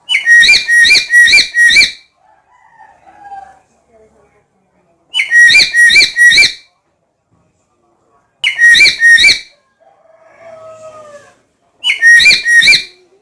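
Black-capped lory calling: four loud bursts of shrill, repeated notes, about four notes per burst, a few seconds apart, with softer, lower gliding calls in between.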